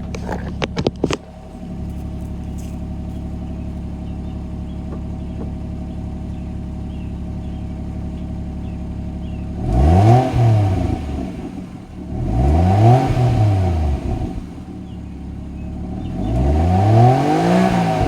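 Toyota Soarer's 1JZ-GTE turbocharged inline-six idling steadily through its stock exhaust, then revved three times, each rev rising and falling back to idle over about two seconds. There are a few clicks just before the idle starts.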